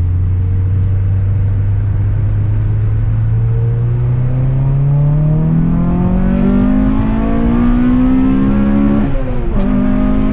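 Honda Integra Type R DC2's stock 1.8-litre VTEC four-cylinder engine heard from inside the cabin, accelerating: a steady note for a few seconds, then a pitch that climbs as the revs build. Near the end it briefly dips, then holds at a higher note.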